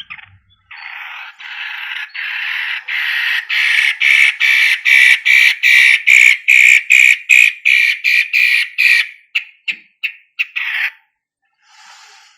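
Cendet matahari (long-tailed shrike) giving a long, harsh, scratchy chatter. The notes quicken into a steady run of about three a second and grow louder, then break up into a few scattered notes and stop near the end.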